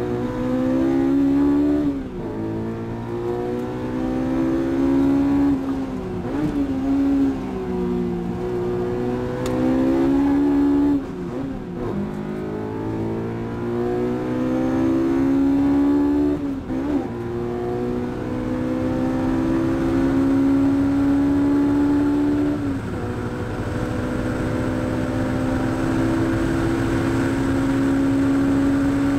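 Honda S2000 AP1's 2.0-litre four-cylinder VTEC engine, fitted with Toda high-lift camshafts, heard from inside the cabin at full throttle on track: the engine note climbs steadily, breaks and drops sharply several times at gear changes or lifts, then pulls up again in a long, slow rise through a high gear as speed builds.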